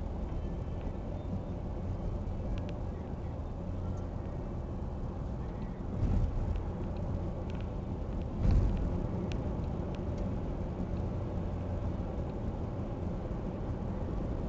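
Road traffic: a steady low engine hum, with a vehicle passing close about six seconds in and another about two and a half seconds later.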